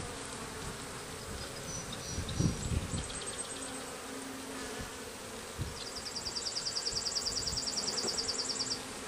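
Honeybees buzzing steadily around an open hive. From about six seconds in, a rapid high-pitched trill of about ten notes a second runs for about three seconds.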